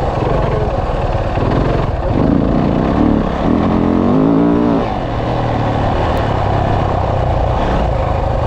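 Dirt bike engine revving hard under riding, with a steady rumble. About two seconds in, the engine note climbs in pitch for a few seconds as the bike accelerates, then falls back.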